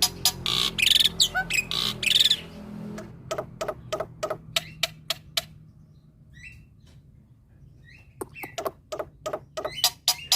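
A black-winged starling (Jalak Putih) singing in a fast run of sharp clicking notes at about four or five a second, with harsh rasping bursts near the start. Around the middle it goes quieter, giving only a few short chirps, then the clicking picks up again near the end.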